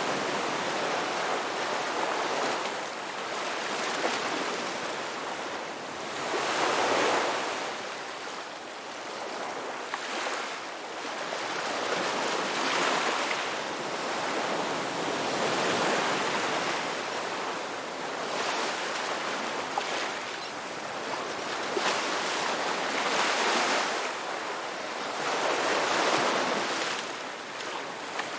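Sea waves washing ashore, a continuous surf hiss that swells and eases every few seconds as each wave breaks and draws back.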